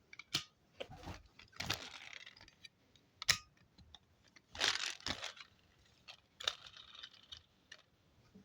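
Plastic toy trucks being handled: irregular rustling and scraping with scattered clicks, including a sharp click about three seconds in.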